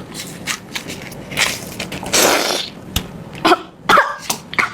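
A person coughing and breathing out hard in several separate bursts, with a few short voiced gasps: a reaction to the heat of very spicy chili.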